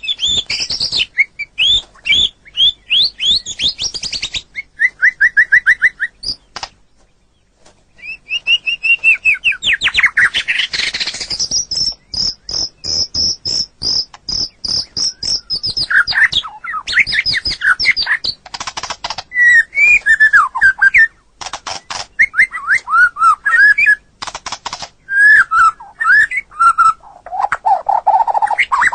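White-rumped shama (murai batu) singing a long, varied song: fast whistled phrases, rapid runs of repeated high notes and sharp clicking notes, with a brief pause about seven seconds in.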